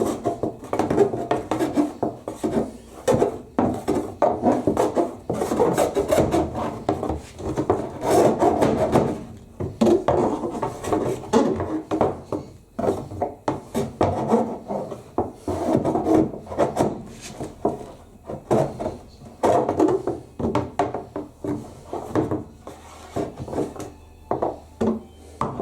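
Repeated, irregular scraping and rubbing as compacted lint is worked and dragged out of a condenser tumble dryer's air duct. The duct is so clogged with lint that it blocks the airflow.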